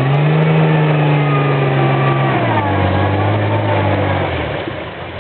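4x4 pickup truck engine revving while the truck is stuck in a muddy creek. It climbs just after the start, holds high for about two seconds, drops back, then eases off near the end.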